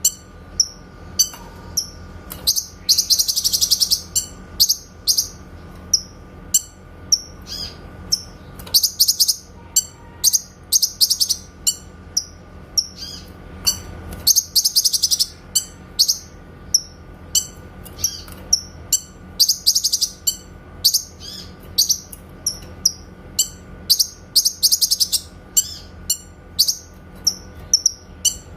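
Cucak kinoy bird singing a clear 'tembakan' song of short, sharp, high notes in quick succession. Several fast trills of about a second each break up the notes.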